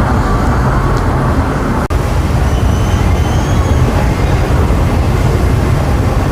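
Steady, loud rumbling outdoor noise, heaviest in the low end, with a momentary break about two seconds in.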